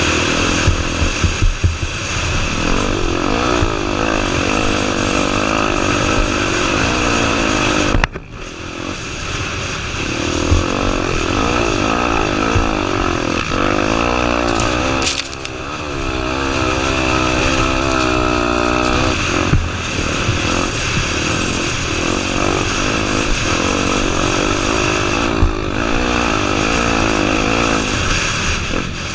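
Honda Tornado 250's single-cylinder four-stroke engine running under load as the motorcycle is ridden, the revs rising and falling with the throttle. The engine drops off briefly about eight seconds in, and later climbs steadily in pitch for a few seconds.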